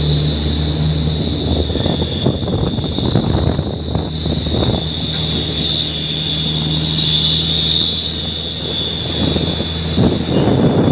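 Heavy truck's diesel engine running steadily, with a constant high-pitched whine over it and rough rattling bursts a couple of seconds in and again near the end.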